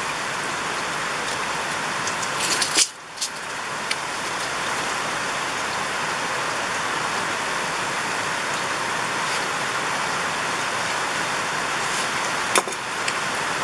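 Steady rain falling, an even hiss, with a sharp click near the end.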